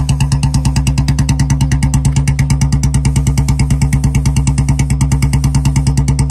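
Royal Enfield Bullet BS6's single-cylinder engine idling steadily in first gear on the stand, its exhaust beating in even thumps about eight times a second.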